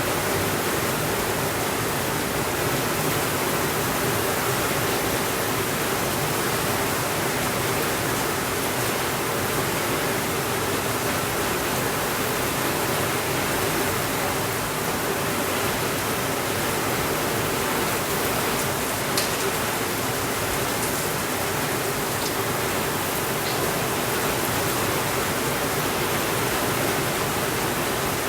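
Steady rainfall, an even unbroken hiss. A few faint sharp ticks sound a little past the middle.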